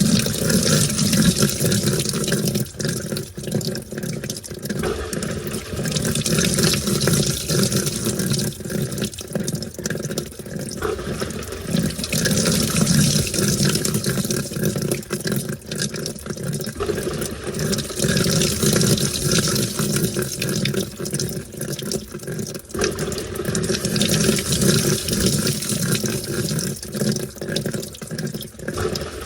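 Washing machine washing a load of towels, with water and wet towels sloshing in the tub. The sloshing swells and eases in repeating rounds about every five to six seconds as the drum turns one way and then the other.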